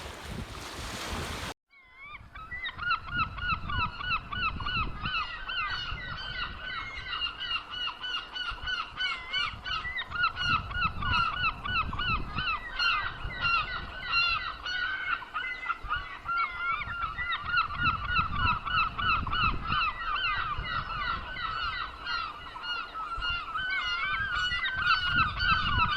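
A flock of geese honking, with many short calls overlapping in a steady chorus that begins suddenly about one and a half seconds in, over a low rumble.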